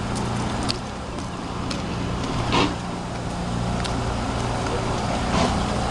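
Car running, heard from inside the cabin: a steady low hum with a few faint ticks.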